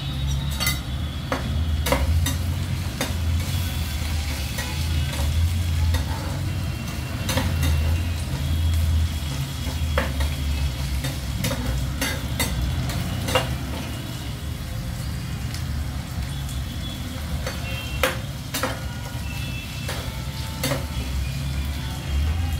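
Chopped onion, tomato and green chilli sizzling as they fry in a steel pan, with a steel spatula stirring and clinking and scraping against the pan every second or so, over a steady low hum.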